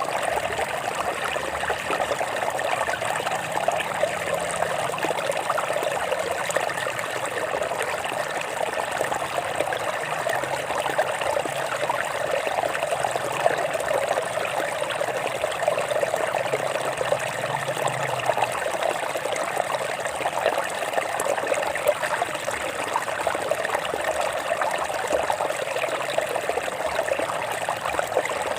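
Water flowing and trickling over rocks in a stream, a steady babbling rush.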